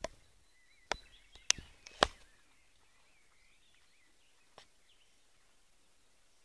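Several sharp clicks or taps, a few in quick succession, then one fainter one, with faint bird chirping behind.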